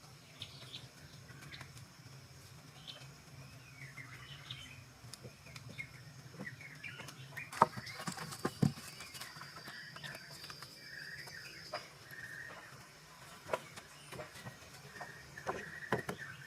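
Birds chirping in the outdoor background, with a steady high whine for a few seconds in the middle and a few sharp knocks scattered through, the loudest about a third of the way in.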